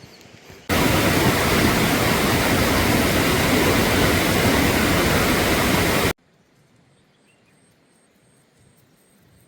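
Loud, steady rushing of water, like a waterfall or torrent, that cuts in abruptly just under a second in and cuts off just as abruptly about six seconds in.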